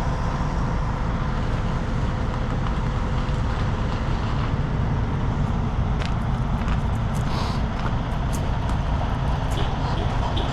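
Heavy diesel truck engine running steadily at a low idle, with a few light clicks in the second half.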